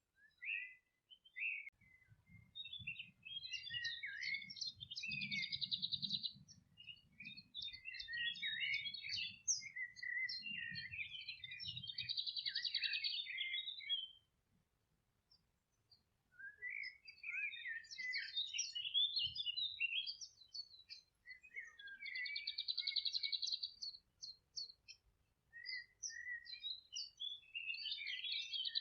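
Several songbirds singing over one another in a meadow, with quick chirping phrases and fast, buzzy trills, and a brief lull about halfway through.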